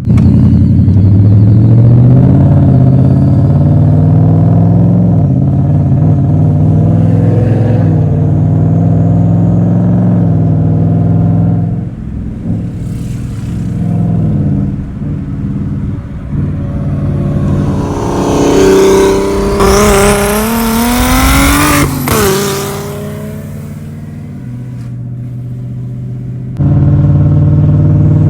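Built big single-turbo BMW N54 straight-six running loud and steady. About two-thirds of the way through it revs hard, its pitch climbing for a few seconds before cutting off abruptly. It then falls back and runs loudly again near the end.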